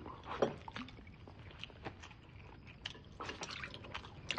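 Quiet eating sounds: scattered light clicks and knocks of bowls and utensils, with chewing.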